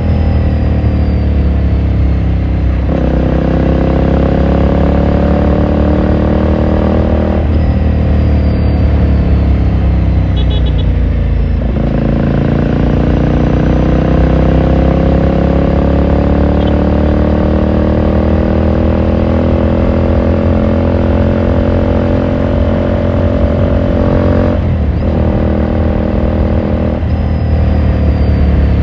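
2018 Ducati Scrambler Sixty2's air-cooled L-twin engine and exhaust, heard from the rider's seat while riding. The engine note climbs and falls as the bike speeds up and slows, changing abruptly about five times as gears are shifted. One long, slow climb runs through the middle.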